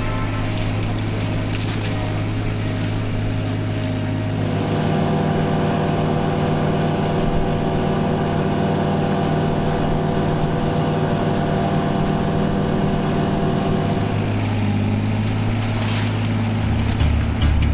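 Engine of a Multione compact articulated miniloader running steadily. Its note shifts about four and a half seconds in and again near the end, as the revs or the load change.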